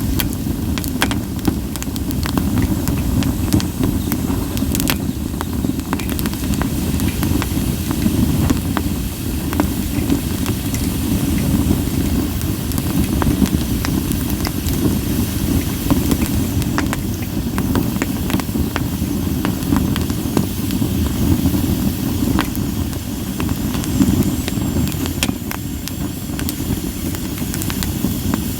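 Split sawtooth oak (kunugi) firewood burning in a campfire: a steady low rush of flames with frequent sharp crackles and pops. There is a faint hiss of steam from the wood, clearest near the end.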